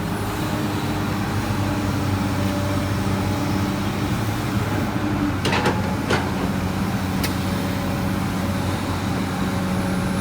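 Komatsu PC200 excavator's diesel engine running steadily at work, with a few short metallic clanks a little past halfway.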